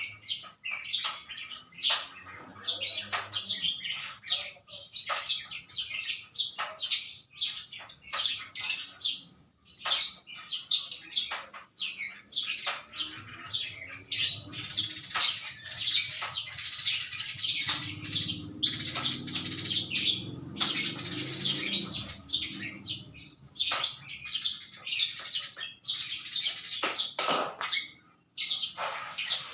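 Small birds chirping in quick, repeated high calls. A low hum rises and fades through the middle.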